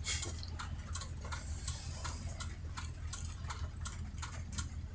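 Car turn-signal indicator ticking in a regular rhythm inside the cabin, over the low steady drone of the car driving.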